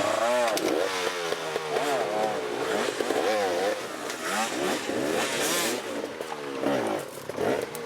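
Motorcycle engines revving, with several overlapping pitches rising and falling in quick arcs, about one or two a second.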